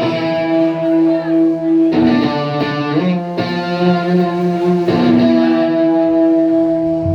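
A live band's guitar playing slow, ringing chords that change every second or so: the opening of a slow song.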